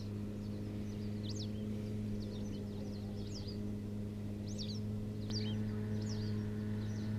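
Short high chirps of a small bird, repeating about once a second, over a steady low hum.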